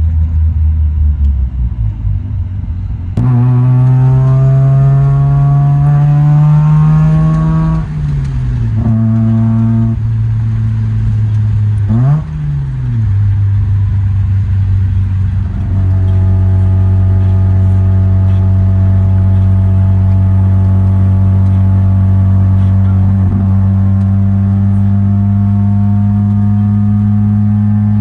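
Mazda RX-7 GSL-SE's 13B rotary engine driving through the gears. About three seconds in it comes on throttle, and its pitch climbs until a gear change drops it at about eight seconds. Near twelve seconds the revs rise and fall quickly, and from about sixteen seconds it settles into a steady run with the pitch slowly rising.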